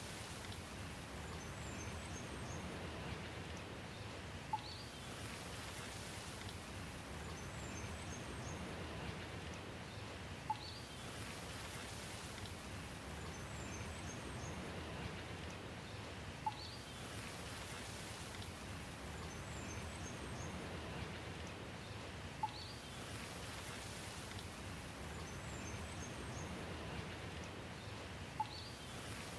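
Steady rain hiss. About every six seconds a short sharp tick stands out, with a few faint high chirps in between, the same pattern repeating evenly like a loop.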